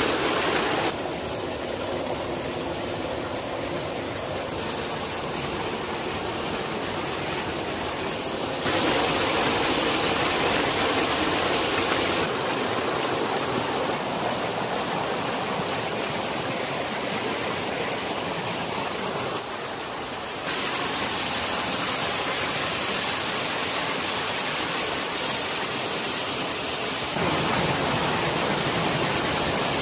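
Rushing water of a stream or small waterfall, a steady even rush that changes abruptly in loudness and tone several times, about every few seconds.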